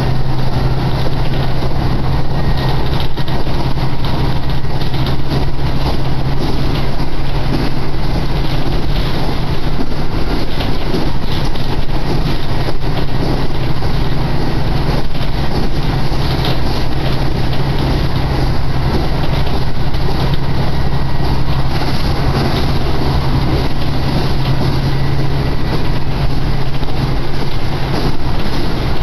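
Steady running noise heard inside a diesel railcar on the move: a constant engine drone under the rumble of wheels on the rails.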